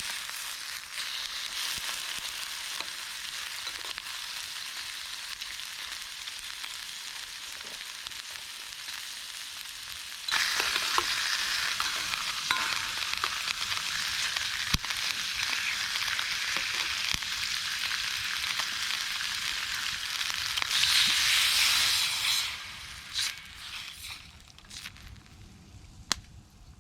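Food frying in hot fat, a steady sizzle that grows louder about ten seconds in, swells once more near the end, then dies down, with a few small pops along the way.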